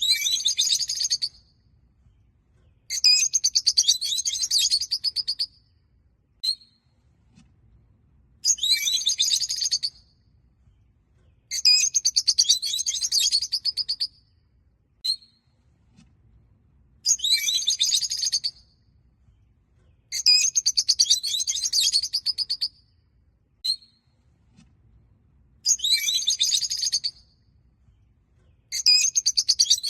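Peach-faced lovebirds chattering in shrill bursts of rapid, high-pitched notes. Each burst lasts a second or two and they come about every three seconds, with single short chirps in some of the gaps.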